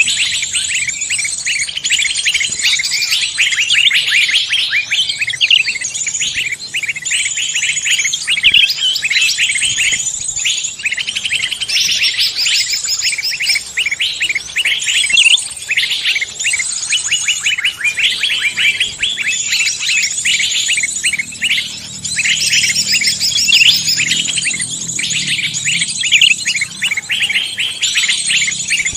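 Dense chorus of forest songbirds, many rapid overlapping chirps, trills and whistles with no pause: a recorded songbird lure call (suara pikat) meant to draw other songbirds in.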